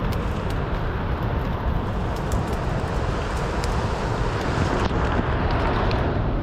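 Steady rushing roar of a waterfall's falling water, with wind rumbling on the microphone.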